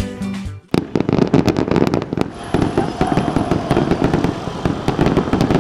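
Fireworks going off in a dense barrage of rapid, overlapping cracks and bangs, starting just under a second in as music cuts off.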